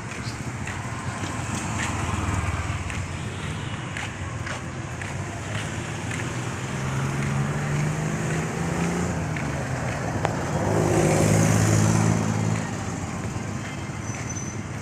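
A motor vehicle's engine running as it passes, its pitch shifting; it grows louder in the second half and drops away sharply near the end.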